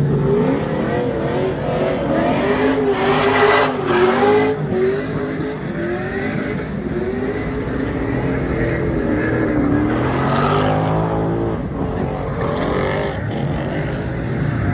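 Drift cars' engines revving hard, pitch climbing and dropping, with tyres squealing as cars slide past; two louder passes about three seconds in and again about ten seconds in.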